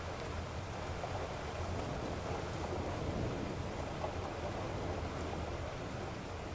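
Steady rushing noise, heaviest in the low end, with no tones or sharp sounds in it.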